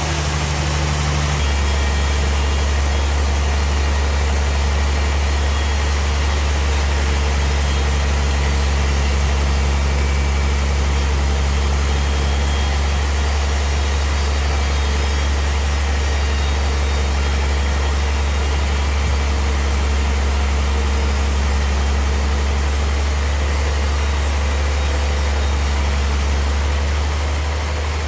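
A heavy engine running steadily, with a deep constant hum and a steady hiss above it. The low tone shifts slightly about a second in, and the hiss eases near the end.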